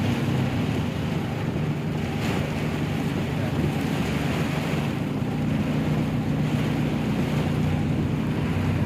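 Heavy rain pouring down in a steady, dense hiss, with a steady low hum underneath.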